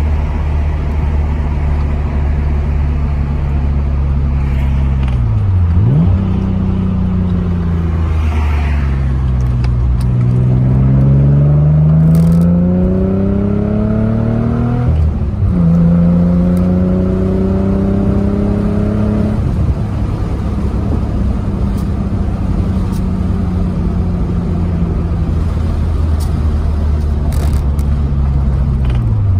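Nissan 300ZX Z32's 3.0-litre V6 heard from inside the cabin while driving. The revs sag and dip sharply about six seconds in at a gear change, then climb under acceleration. They drop suddenly at a shift about fifteen seconds in, then settle into a steady cruise, with another sharp dip at the very end. The owner blames his awful downshifts on a dead clutch.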